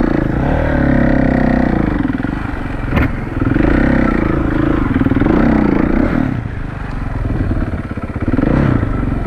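Motorcycle engine running as it is ridden, its pitch rising and falling several times as the throttle opens and closes. There is a sharp click about three seconds in.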